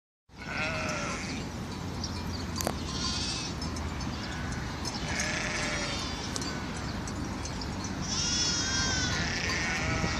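Sheep bleating, about five calls a second or two apart, some high-pitched with a wavering, quavering tone.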